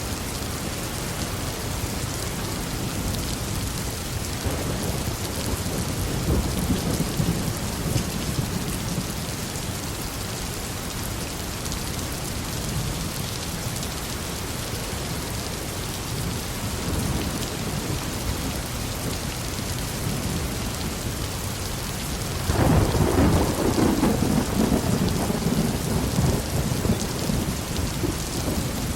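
Heavy rain falling steadily in a thunderstorm, with low rolls of thunder; the loudest thunderclap breaks in suddenly about three-quarters of the way through and rumbles on for several seconds.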